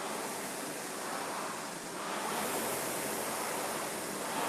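Concept2 Model E indoor rowing machine being rowed: its air-resistance fan flywheel gives a steady rushing whoosh that swells gently with the strokes.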